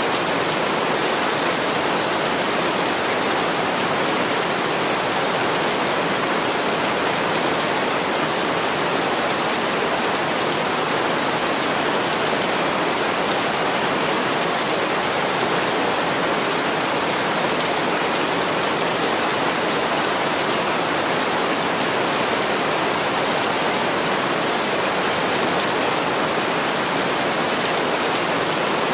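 Heavy rain falling steadily on a window: a dense, even hiss of countless drops, with no single drop or crackle standing out.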